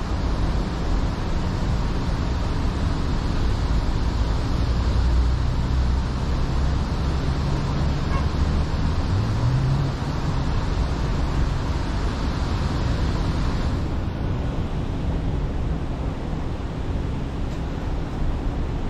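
Car driving, heard from inside the cabin: steady road and engine noise. The engine note rises about nine seconds in, and the high tyre hiss eases about fourteen seconds in.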